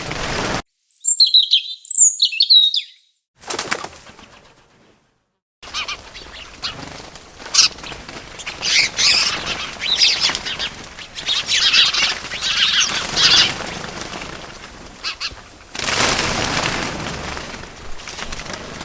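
Bird sounds: two short chirps about a second in, then after a pause a run of wings flapping mixed with chirps, and a rushing burst of wing noise near the end.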